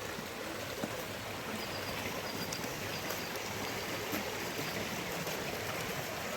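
Steady rushing water with a few faint clicks.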